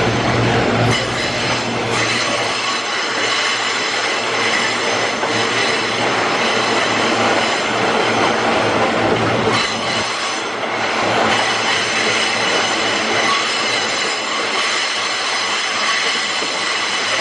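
Loaded iron-ore freight wagons rolling past, with steel wheels squealing on the rails in several steady high tones over a continuous rumble and rail clatter.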